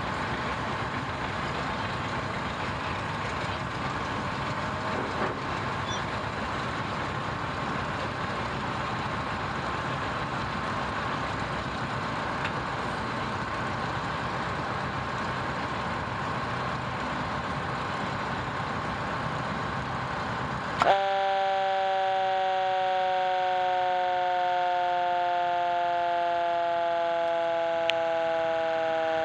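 Fire truck running with a steady engine and road rumble. About two-thirds of the way in, the rumble cuts out and a loud siren sounds, its pitch slowly falling.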